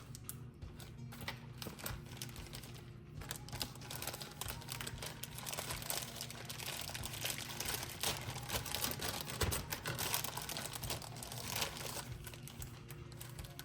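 Plastic freezer bag crinkling and rustling in bursts as it is handled and pressed to squeeze the excess air out.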